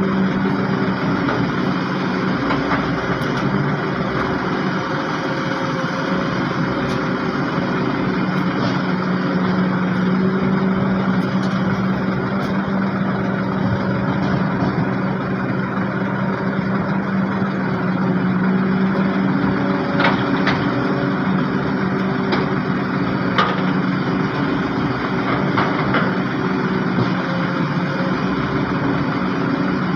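Heavy diesel engines, from the dump trucks and excavator, running steadily with a constant low drone. A few sharp knocks come about two-thirds of the way through.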